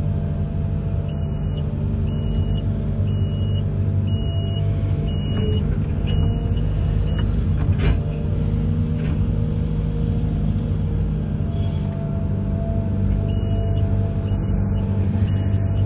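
Amphibious excavator's diesel engine running steadily, with a machine warning alarm beeping about once a second in two runs, one in the first half and another near the end.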